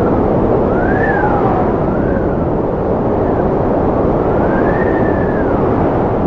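Strong wind blowing steadily with a whistling howl that rises and falls in pitch a few times.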